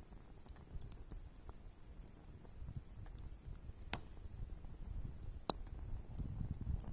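Wood fire burning, with a low uneven rumble and scattered crackles. Two sharp snaps stand out, about four and five and a half seconds in.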